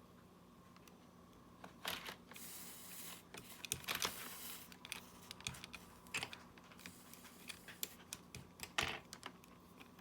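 Small hand tools clicking and tapping against the parts of a smartwatch under repair: light, irregular clicks, with a short stretch of scraping about two seconds in.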